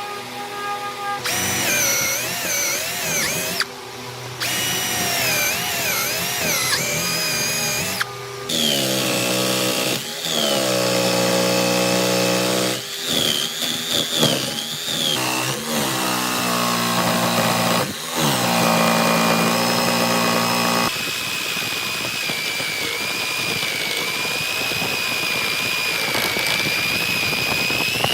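Electric power tool, drill-like, running in several short stretches that start and stop abruptly. Its motor pitch wavers and sags, dipping as the tool bites into wood and rising again as it frees up.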